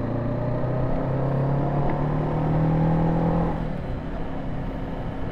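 Motorcycle engine pulling steadily with its pitch slowly rising, then dropping away abruptly about three and a half seconds in as the throttle is closed and the clutch pulled in, leaving a quieter running and road sound.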